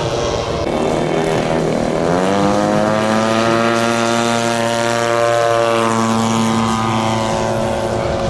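Radio-controlled giant-scale model airplane's propeller engine, throttled up about two seconds in and then held at a steady high pitch that eases off slightly near the end.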